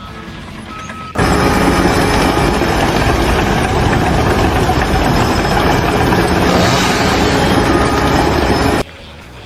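Loud, steady machine noise that cuts in abruptly about a second in and cuts off abruptly near the end.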